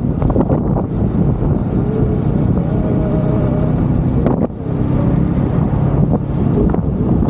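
Vehicle on the move: a steady low engine and road rumble with wind buffeting the microphone.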